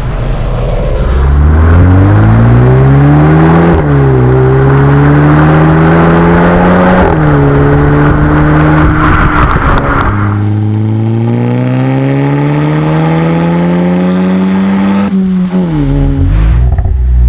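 Audi A3 1.8T's turbocharged four-cylinder engine breathing through a Remus sport exhaust, accelerating hard through the gears. The pitch climbs, drops sharply at upshifts about 4 and 7 seconds in, climbs again, and falls away near the end as the throttle is released.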